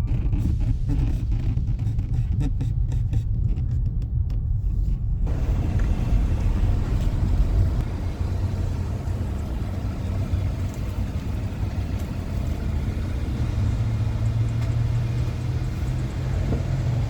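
A 4.8-litre LS V8 running through a budget dual exhaust with mufflers, giving a steady low rumble while the car is driven. A broader hiss joins the rumble about five seconds in.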